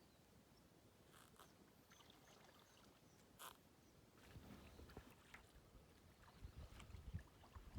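Mostly near silence: faint drips and small splashes of water from kayak paddling, with a low rumble building in the second half.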